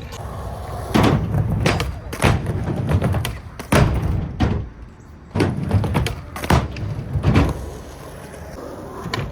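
Skateboard rolling on concrete with about ten sharp clacks and thuds from the board striking the ground, irregularly spaced, then a quieter rolling rumble near the end.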